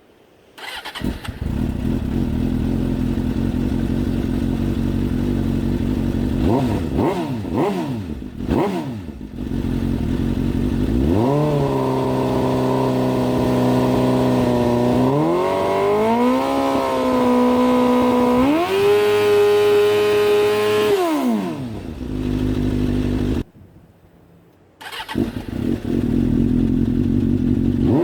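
Suzuki GSX-R600 K4/K5 inline-four sport bike engine heard through its exhaust can. It idles with a few quick throttle blips, then is revved and held at three steadily higher engine speeds, one after another, before falling back to idle. About 23 seconds in it cuts off briefly, then idles and blips again.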